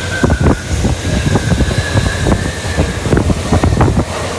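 Commuter electric train running, heard from inside the car: wheels knocking irregularly over rail joints and points over a steady low rumble, with a steady high squeal for about the first three seconds.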